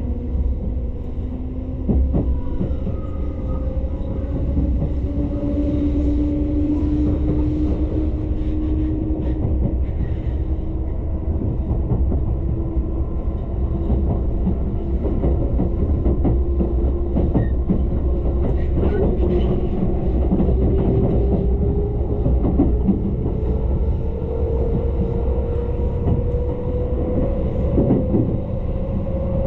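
Tobu Ryomo limited express electric train running and gathering speed, heard from inside the carriage: a steady low rumble with the clicks of the wheels over the rail, and a motor whine that rises slowly in pitch as it accelerates.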